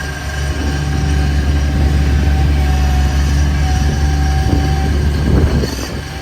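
Bobcat MT100 mini track loader's engine running with a steady whine over it, working harder from about half a second in and easing off about five and a half seconds in, with some clatter just before it eases.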